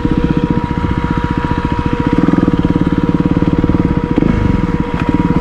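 Motorcycle engine running at low speed off-road, with a rapid, even chugging pulse and a steady whine alongside. It eases off briefly about four seconds in, then picks up again.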